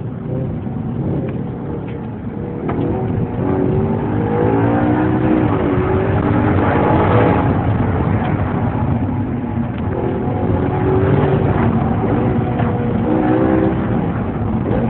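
Audi R8's 4.2-litre V8 heard from inside the cabin, accelerating hard, its pitch climbing and dropping back several times as it revs, loudest about seven seconds in.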